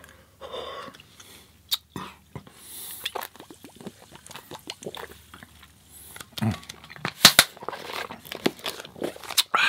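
A person chewing and crunching food close to the microphone: irregular crisp crunches and wet mouth sounds, with a few louder sharp crunches about seven seconds in.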